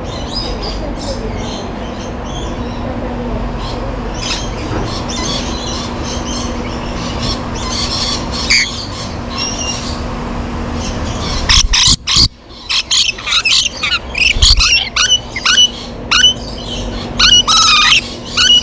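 Exotic birds chirping and squawking close by while being hand-fed. About halfway through, a run of loud, sharp calls starts, one or two a second, over a steady background hum.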